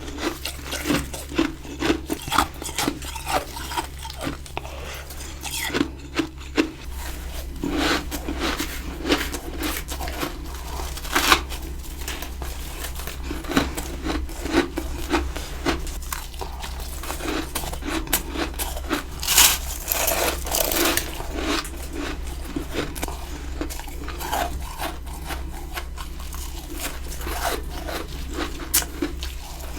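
A person biting and chewing ice right at the microphone: many sharp, crisp crunches at uneven intervals, a few much louder bites among them, over a steady low hum.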